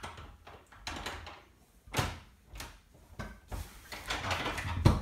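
A key being worked in an old door lock, with metallic clicks and rattles of the lock and knob. There is a sharp knock about two seconds in, and a stretch of rattling near the end that finishes in a harder knock.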